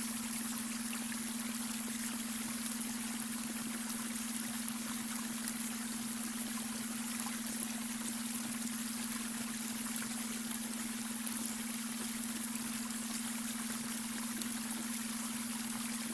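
Babbling brook running steadily, with a steady low hum held underneath it: the added beta brainwave tone.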